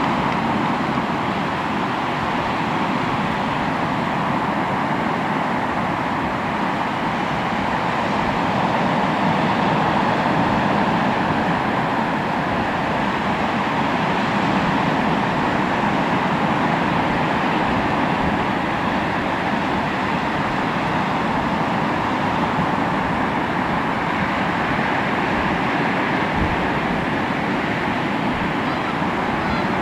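Sea waves washing onto the shore: a continuous rushing surf that swells and eases gently.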